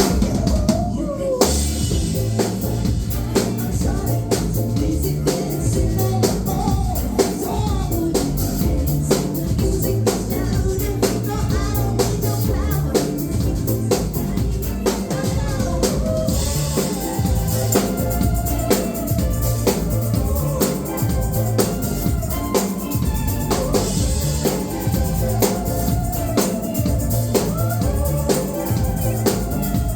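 Live band playing a pop song, with a steady drum-kit beat of bass drum and snare under melodic lines.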